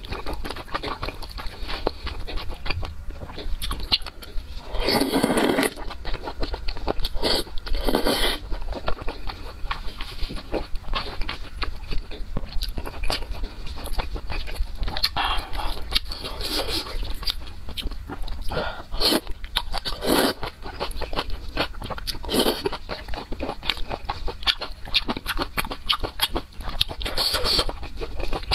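Close-miked eating sounds: wet chewing and biting of soft, chewy pieces from a spicy stew, a steady patter of small mouth clicks with louder bursts every few seconds.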